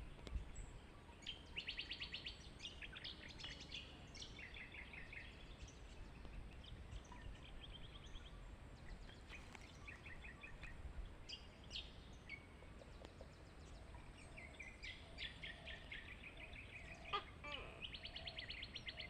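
Small birds chirping and singing in quick, repeated trills and chirps, several calls overlapping, over a low background rumble.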